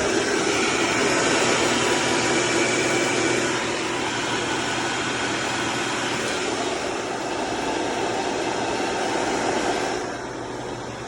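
Steady grinding whir from a BMW 535i xDrive's ATC 35L transfer case while the car runs, the sign of a failing transfer case input shaft bearing. The level drops a little about a third of the way in and again near the end.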